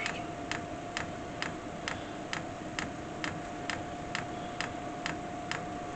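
Diesel air heater's fuel dosing pump ticking steadily, about two clicks a second, as it meters fuel during start-up. A steady faint tone runs beneath the ticks.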